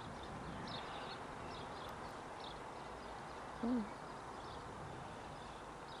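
Faint, high chirps of small wild birds, several short calls in the first half, over a steady outdoor background. About halfway through, a man's voice gives one short call, the loudest sound.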